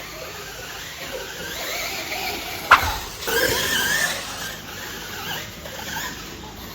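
Electric RC trucks racing: several motor whines that rise and fall in pitch with the throttle. A sharp knock comes a little under three seconds in, followed by a louder rush of noise for about a second.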